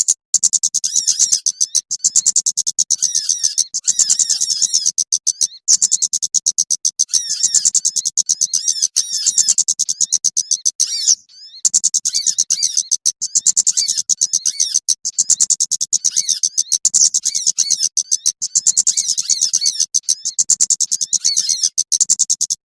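Lure call for small birds: a dense, fast twittering of high chirps that repeats in stretches, breaking off briefly twice, over a faint low hum.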